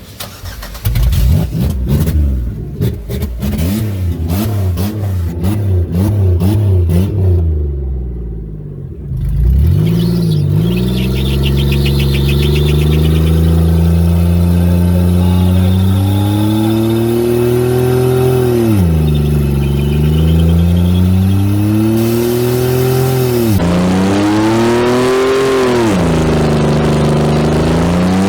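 Buick Century's engine revved hard. For the first several seconds it is blipped rapidly up and down, then it is held at high revs, sagging and climbing back a few times, with a brief faint tire squeal about eleven seconds in.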